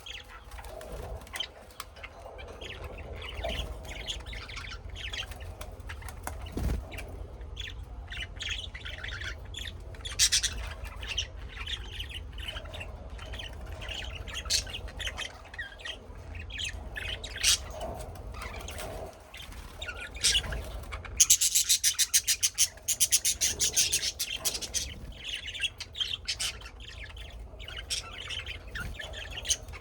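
Birds chirping and squawking in short, scattered calls over a low steady hum, with a fast run of sharp clicks lasting about three seconds past the middle.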